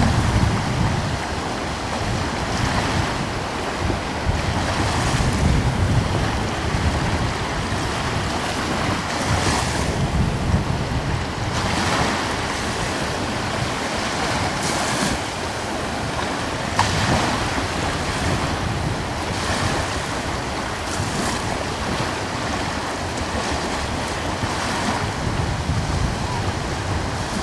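Gentle ocean waves washing in, one soft swell every few seconds over a steady hiss of water, with a light breeze rumbling on the microphone.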